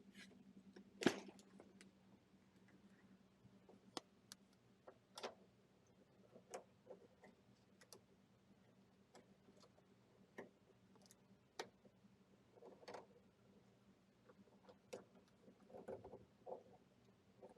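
Near silence broken by scattered light clicks and taps of things being handled, the sharpest about a second in, over a faint steady low hum.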